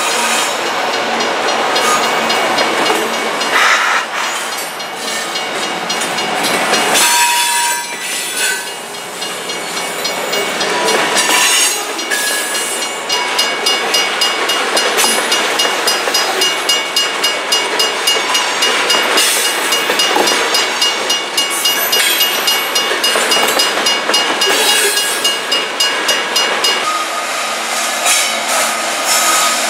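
Loaded grain train of freight cars rolling past, a steady rumble of wheels on rail with thin, high, steady squealing tones over it. About halfway through a regular clickety-clack of wheels over rail joints sets in, about two clacks a second.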